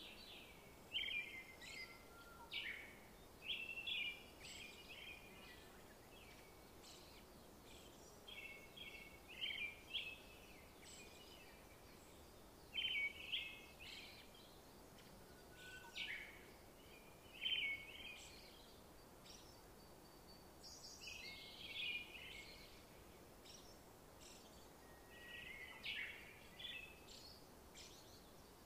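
Small birds chirping in short twittering bursts every second or two, over a faint steady hiss.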